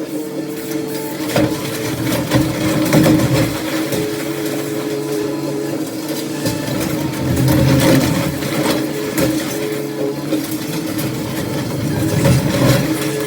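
Demolition excavator's diesel engine running and revving under load, with scattered knocks and clatter of debris.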